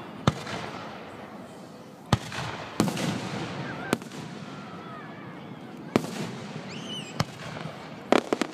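Aerial fireworks bursting: single sharp bangs every second or two, then a quick run of cracks near the end.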